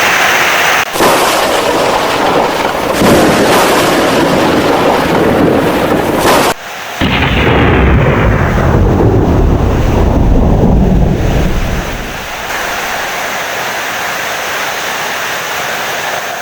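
Heavy rain with thunder. A deep rumble of thunder swells about seven seconds in and dies away about twelve seconds in, leaving a steady hiss of rain.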